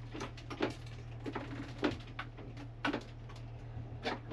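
Scattered light clicks and knocks of hands working on the water maker's hoses and fittings, over a steady low hum.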